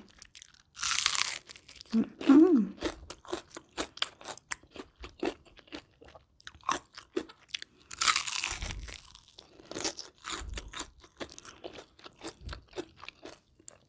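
Crunchy batter-fried chicken being bitten and chewed close to the microphone, a run of sharp crackling crunches. There are two louder, longer crackling bites, one about a second in and one about eight seconds in.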